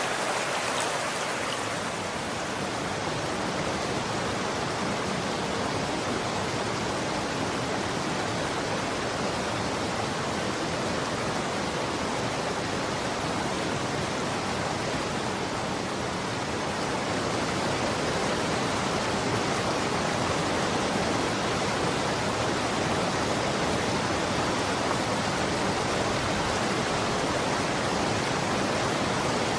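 Running water: a steady, even rushing of a stream or small cascade, with no drips or splashes standing out.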